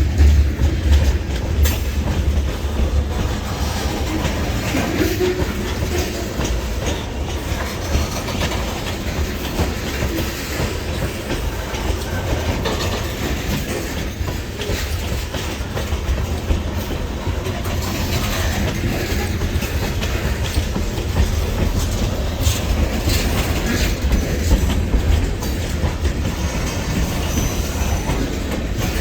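A freight train rolling past, its wheels clacking over the rail joints, with a steady low rumble.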